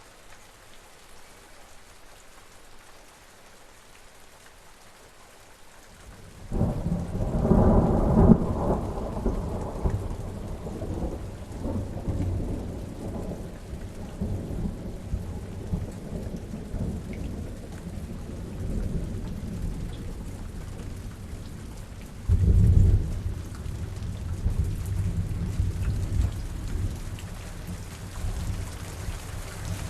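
Steady rain falling, with thunder breaking in sharply about six seconds in and rumbling for several seconds, then a second thunder rumble about 22 seconds in.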